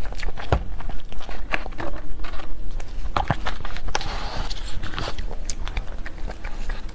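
Close-miked eating sounds of a person chewing cake or dessert: a dense run of small wet mouth clicks and smacks, with a softer rustling stretch around the middle.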